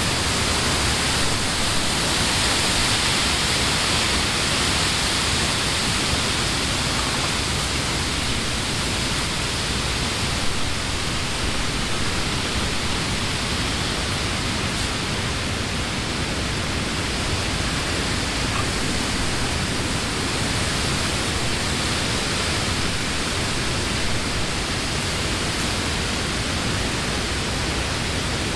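Wind blowing through the leaves of trees: a steady rushing hiss, a little stronger in the first few seconds.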